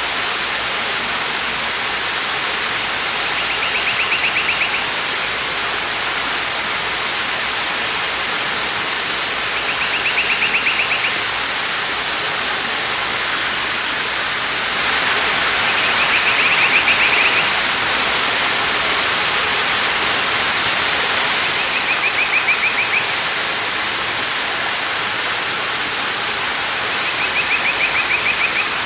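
Waterfall rushing steadily, with a bird's high, rapid trill repeating five times, about every six seconds.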